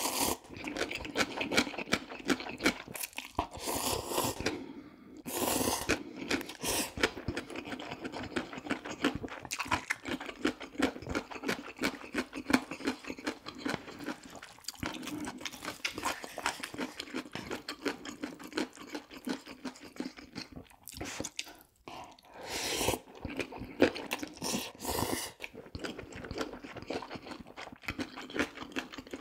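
Close-miked chewing and crunching of food, a steady stream of rapid mouth clicks with a few longer noisy passages.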